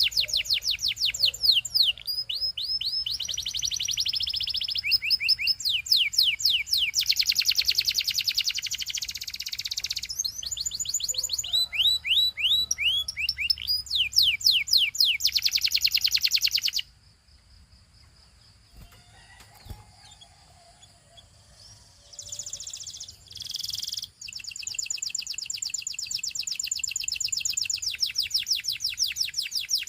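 Domestic canary singing: a song of rapid trills, each phrase a fast run of repeated high, downward-sweeping notes, switching to a new note type every second or two. A little past halfway the song stops for about five seconds, with only a few faint notes, then resumes with a long even trill.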